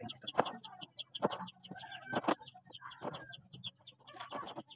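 Bird calls: a rapid run of short high chirps, a couple of brief clucking calls, and a few sharp clicks.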